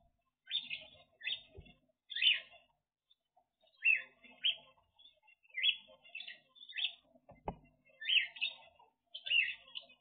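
Aviary birds calling: a series of short chirps, most falling in pitch, about one to two a second, with a brief low thump about seven and a half seconds in.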